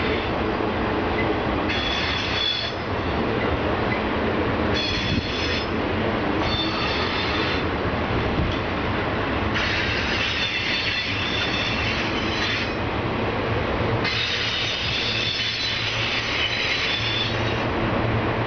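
Union Pacific autorack freight cars rolling by on a downgrade, wheels squealing in repeated stretches of one to three seconds over a steady low rumble.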